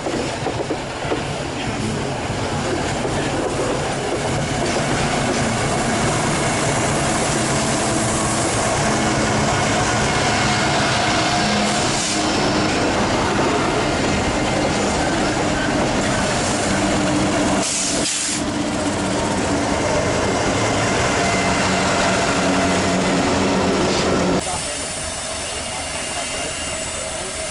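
Freight train running past on the track: a steady low diesel locomotive hum under continuous wheel-on-rail noise and hiss. About three seconds before the end the sound suddenly drops and thins out.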